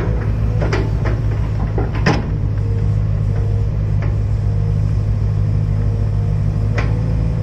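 Hydraulic excavator's diesel engine running steadily with a low hum. A few sharp knocks come from the machine working, three or so spread across the stretch.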